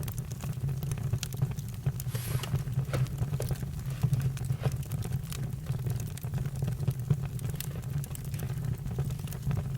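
Campfire burning: irregular sharp crackles and pops over a steady low rumble.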